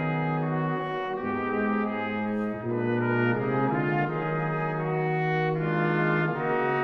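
Brass ensemble (trumpets, trombones, horns) playing slow, sustained chords, with the harmony shifting every second or two.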